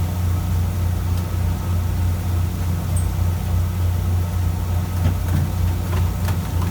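Fishing boat's diesel engine running steadily, a low even hum, with a few faint clicks near the end.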